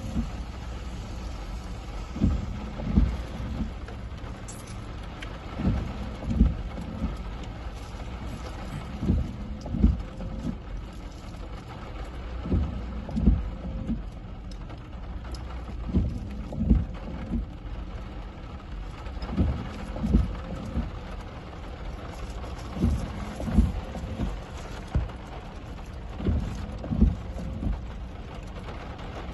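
Heavy storm rain, with a steady hiss and a pair of low thumps repeating about every three and a half seconds.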